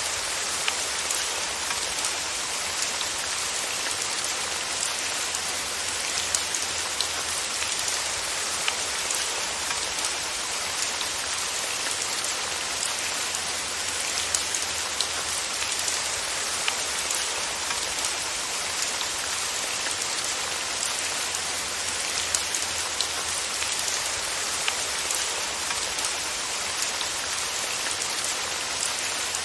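Steady rain falling, an even hiss with many scattered drops pattering on a surface.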